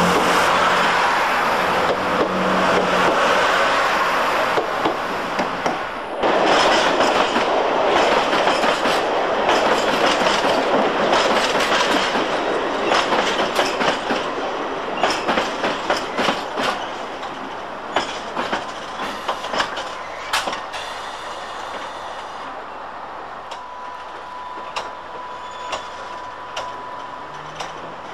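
A Class 165 diesel multiple unit pulls away with a steady rumble for the first few seconds. Then a London Underground A Stock train runs past, its wheels clattering and clicking over the rail joints and slowly fading, with a thin steady whine near the end.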